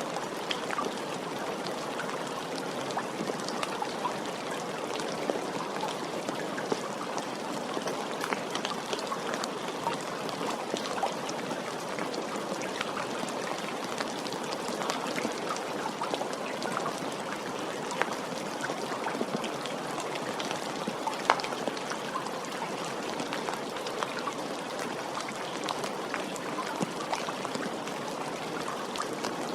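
Steady rain falling, with individual drops hitting close by as scattered sharp ticks, one a little louder about two-thirds of the way through.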